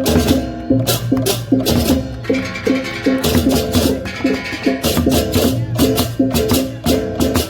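Balinese gamelan percussion: metal gongs playing a fast repeating melodic pattern, cut through by frequent sharp cymbal crashes.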